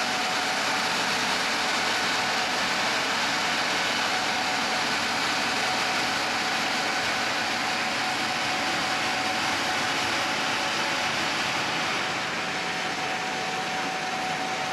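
Gleaner S67 combine running steadily while harvesting soybeans: a constant dense mechanical drone with a thin steady whine, easing slightly near the end.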